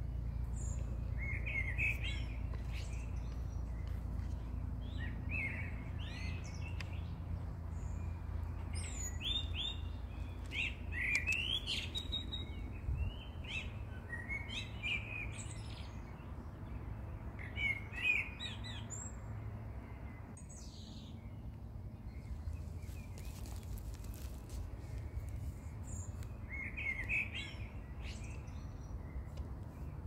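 Small birds chirping in short repeated phrases every few seconds, with a pause of several seconds past the middle, over a low steady rumble.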